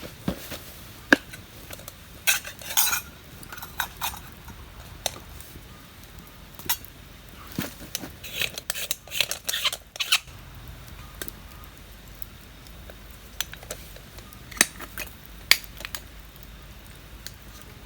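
Metal camp cookware and utensils clinking and scraping: irregular sharp knocks, busiest about two seconds in and again around the middle, then only a few.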